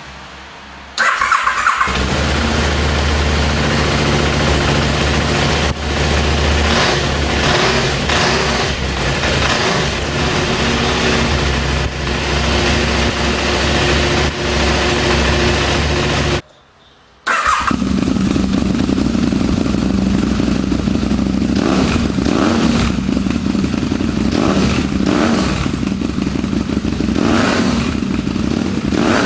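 KTM 990 SM-T's V-twin engine breathing through a Mivv Storm Oval aftermarket exhaust, cranked on the starter and catching about a second in, then idling with repeated blips of the throttle. It cuts out for about a second just past halfway, then runs again with more revving blips.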